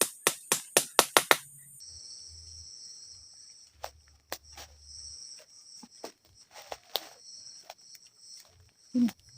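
A fast run of sharp knocks, about five a second, stops suddenly. It gives way to a steady high chorus of forest insects, with scattered light knocks and one louder thump near the end.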